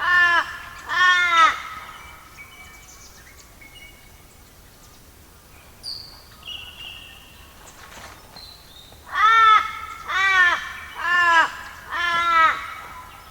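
A crow cawing: two harsh caws at the start, then a run of four caws about a second apart near the end. A few faint, short, higher bird chirps come in between.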